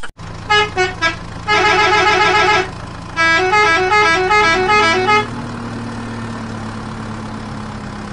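Electronic horn-like beeps, a fast warbling tone and a short stepped tune of synthesized notes, like a toy vehicle's sound chip. A steady low hum runs underneath and steps up slightly in pitch midway.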